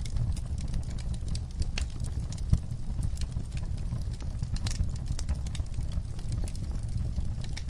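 Wood fire in a fireplace crackling: irregular sharp pops and snaps over a steady low rumble of the flames, with one louder pop about two and a half seconds in.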